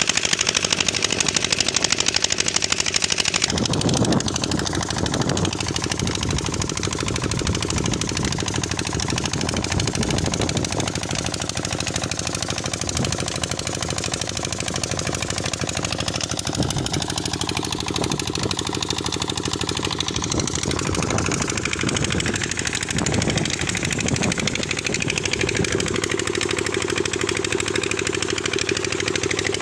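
Diesel engine driving a tubewell pump, running steadily with a knocking beat. A loud hissing rush over the engine stops about three and a half seconds in.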